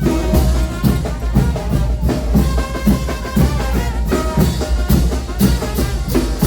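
Brass band playing a son de chinelo: trumpets carrying the melody over a steady drum beat of about two strokes a second.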